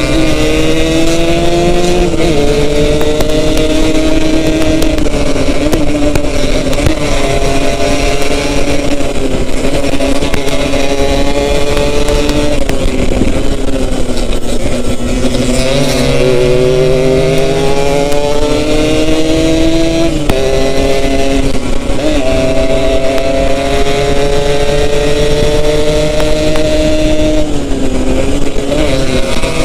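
Yamaha RX-King two-stroke single-cylinder motorcycle engine under way, its pitch climbing as it accelerates and dropping sharply at each gear change, a few times, then holding fairly steady.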